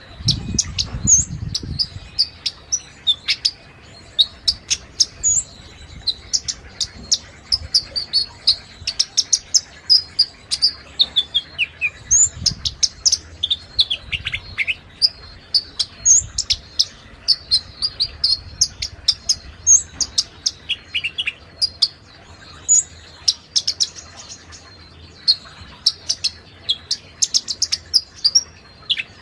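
A konin songbird singing a fast, unbroken run of short, high chirps and whistled notes, some sliding down in pitch, as a lure song to set other konin singing. A few low thuds sound in the first two seconds.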